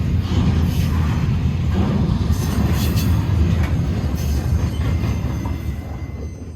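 Freight train of intermodal stack cars rolling past: a steady low rumble of steel wheels on the rails with a few sharp clicks and brief squeals, fading near the end.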